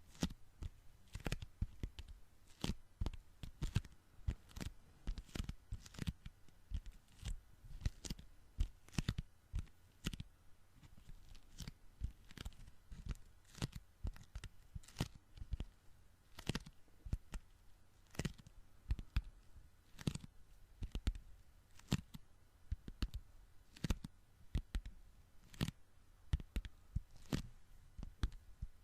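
Sticky hands pressed together and pulled apart over and over, each release a short sharp peeling crackle, a couple of times a second in an uneven rhythm.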